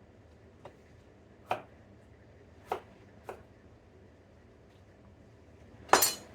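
A few separate, irregularly spaced knocks of a knife and things being handled on a wooden cutting board, not a run of chopping, then one louder, longer clatter near the end.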